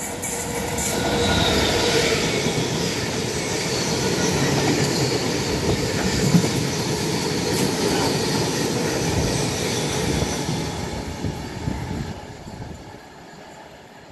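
Diesel-hauled freight train of bulk tank wagons passing through: the locomotive's engine and the wagons' wheels running over the rails. The sound builds over the first two seconds, holds steady, then fades away from about eleven seconds in.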